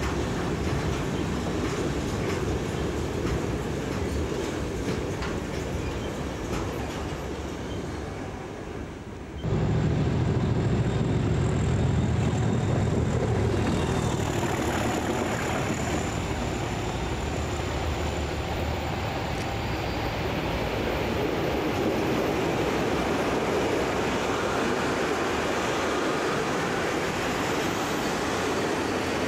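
Freight wagons rolling past on the rails with a steady rumble. About nine seconds in the sound cuts abruptly to a louder diesel locomotive, strong low engine rumble, as it hauls a train of covered vans by, followed by the vans' wheels rolling past.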